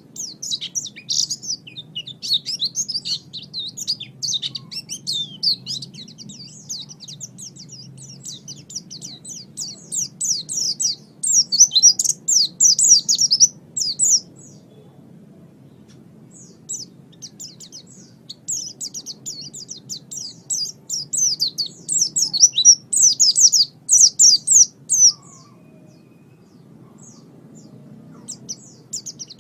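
A pleci (white-eye) singing a fast, high, twittering song in long unbroken bouts, with a pause of a few seconds about halfway through and the song starting again near the end. A faint low hum sits underneath.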